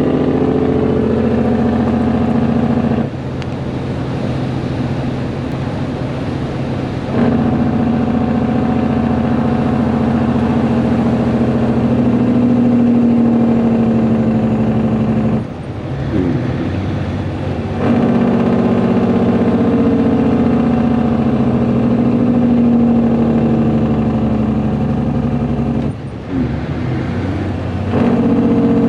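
Caterpillar C10 diesel in a Peterbilt 362 cabover, running through a straight pipe with the muffler deleted, pulling under load as the truck is driven. The engine note drops back three times, once for a few seconds and twice briefly, then comes back on.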